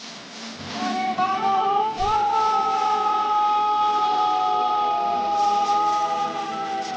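Singing over music: a voice climbs about a second in, then holds one long note for about five seconds.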